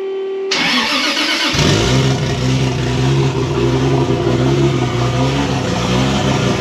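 Toyota Supra engine started with the exhaust system removed, running straight off the turbo dump pipe: about half a second in it cranks, catches about a second later and settles into a loud, steady idle. A steady hum stops as the cranking begins.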